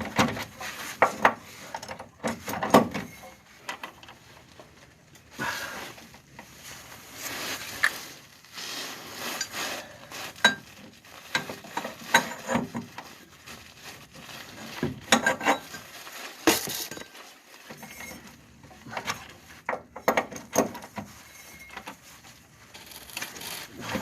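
Metal hand tools clinking and clanking against steel while working on the rear leaf spring bolts, in irregular clusters of sharp knocks and clicks.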